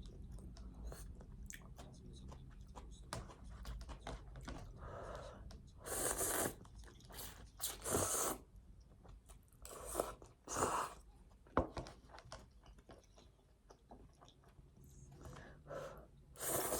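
A person chewing crunchy food close to the microphone, with small crackles throughout and several louder crunching bites partway through and near the end.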